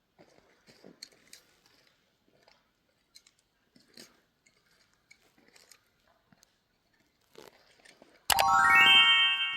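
Faint scattered crunches and clicks, then about eight seconds in a loud rising run of ringing, chime-like notes, an end music sting.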